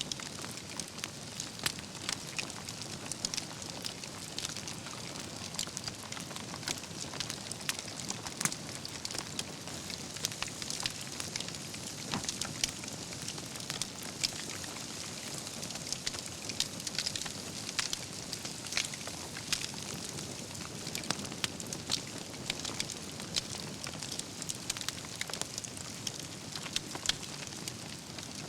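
Wood campfire burning: a steady hiss and rush of flame with frequent sharp crackles and pops from the burning logs.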